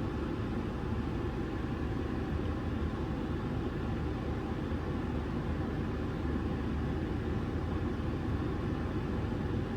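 Steady low rumble inside a car's cabin while the car sits stopped with its engine idling.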